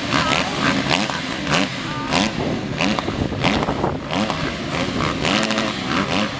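Several motocross bike engines, a mix of 125cc two-strokes and 250cc four-strokes, revving up and down over each other.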